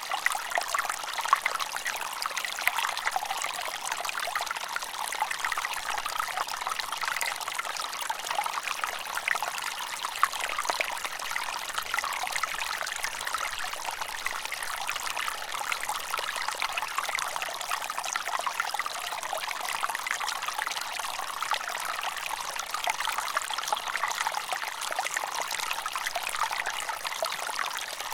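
Water trickling and splashing steadily, as of a small stream running over stones, with many small bright splashes and no change in flow.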